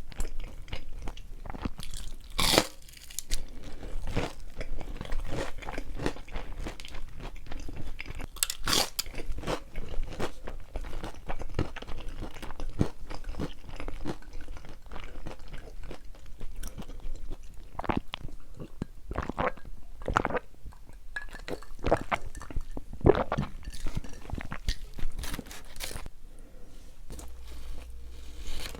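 Close-up chewing and crunching of pepperoni pizza, an irregular run of crisp bites and chews. A couple of louder crunches come about two and a half and about nine seconds in.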